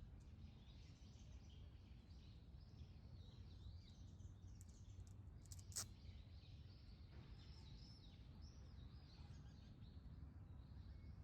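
Faint chirping and twittering of small birds over a low, steady background rumble, with one short sharp click about six seconds in.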